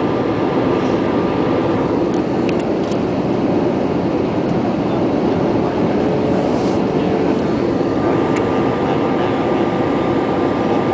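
Steady roar of a passenger jet heard inside the cabin: engine and airflow noise with a faint steady hum running through it, and a few light ticks.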